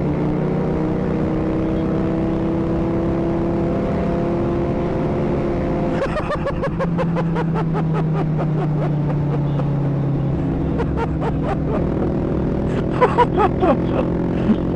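Mini motorcycle engine running hard at fairly steady revs during a race from a standing start, with the sound changing about six seconds in.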